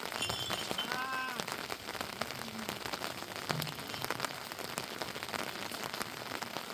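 Heavy rain falling, a steady hiss dense with the patter of drops. A short high-pitched call sounds briefly about a second in.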